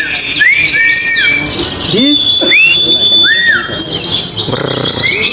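Many caged white-eyes (pleci) singing at once: a dense, continuous high twittering, with clearer whistled notes over it that rise and fall and are sometimes held briefly.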